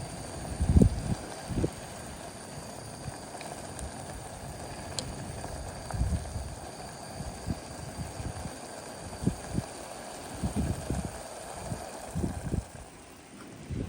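Sea waves washing steadily at the shore, with wind buffeting the microphone in irregular low thumps; the strongest gust is about a second in.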